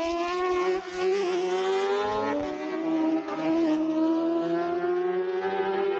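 Superbike racing motorcycles accelerating hard, engine note climbing through the gears, with a drop in pitch at a gear change a couple of seconds in before climbing again.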